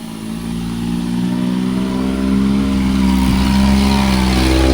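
A motor engine running steadily at low pitch and growing steadily louder as it draws closer.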